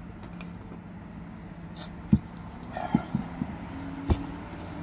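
Several sharp knocks of tools or parts being handled on a workbench, the loudest about two seconds in and a few more near three and four seconds, over a steady low hum.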